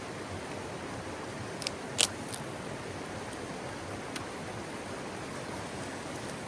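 Steady rushing of a mountain stream, with a few short sharp clicks close together about two seconds in.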